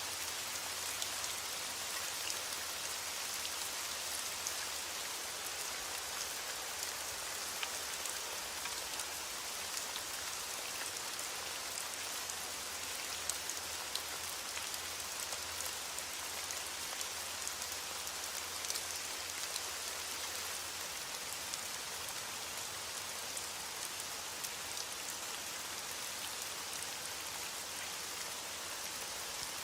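Steady rain falling on a surface, a dense even hiss with many small drop ticks and no thunder.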